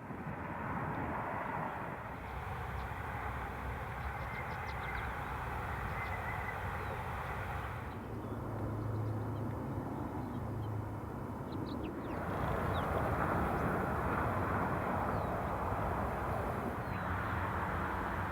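Outdoor field ambience: a steady wash of distant rumbling noise, with a few faint, short bird chirps. The background changes abruptly about eight and twelve seconds in, and a low rumble rises for a few seconds around the first change.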